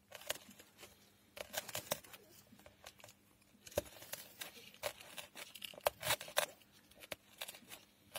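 A wooden stick rubbed back and forth in a groove in a wooden board, grinding a potassium permanganate and sugar mix to ignite it by friction: irregular scraping, crunching strokes.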